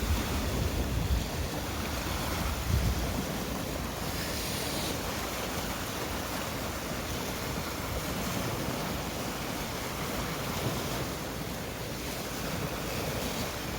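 Sea waves washing on the shore, a steady surf hiss, with wind buffeting the microphone in low gusts during the first few seconds.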